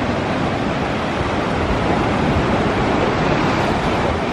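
Atlantic surf washing steadily onto the beach, mixed with wind buffeting the microphone.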